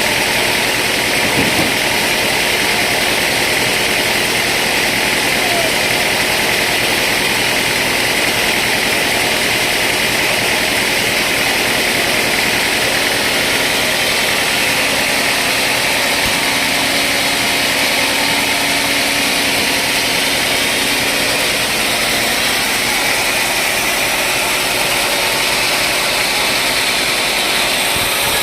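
Sawmill saw machinery running with a steady, loud noise that does not let up.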